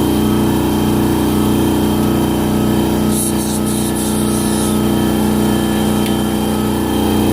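Electric air compressor's motor and pump running steadily while it builds pressure: a low hum with a faint pulse about twice a second. A brief hiss comes in about three seconds in.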